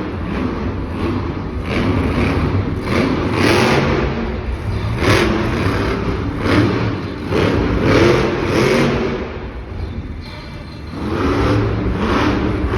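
Bigfoot monster truck's engine revving hard in repeated surges, about one every second or two, over a steady low rumble.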